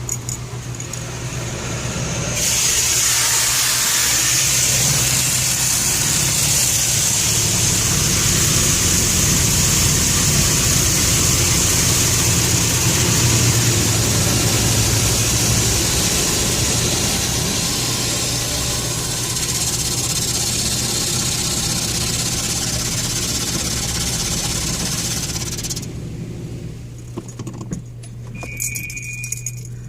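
High-pressure water spray from an Autec touch-free automatic car wash hitting the car, heard from inside the cabin. It starts about two seconds in and stops a few seconds before the end. The car's engine idles underneath with a steady low hum, and a short beep sounds near the end.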